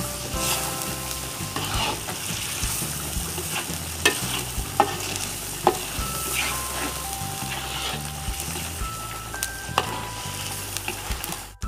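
Rendang simmering and sizzling in a large wok over a wood fire as a metal spatula stirs it, with a few sharp scrapes and knocks of the spatula against the pan. The thick coconut-milk sauce is partway through reducing.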